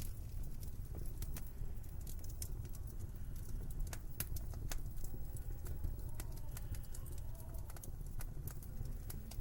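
Wood fire in a fireplace crackling, with scattered sharp pops over a low steady rumble.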